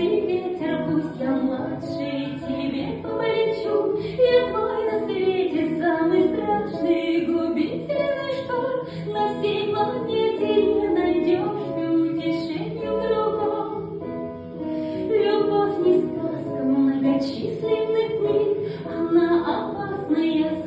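Female voices singing a song with Russian lyrics a cappella, in several-part harmony, with no instruments.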